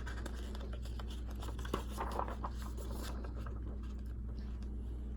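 Faint paper rustling and small clicks of a book's pages being handled, as in a page turn, over a steady low hum.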